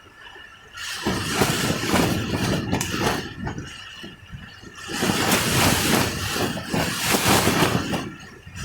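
Rain and gusting wind: a rushing noise that swells and drops, picking up about a second in and loudest from about five to eight seconds in.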